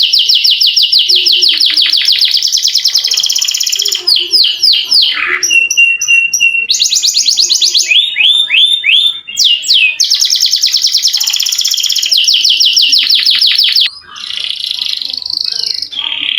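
Domestic canary singing in long, rapid rolling trills of several seconds each, broken by falling swept notes and a short held whistle.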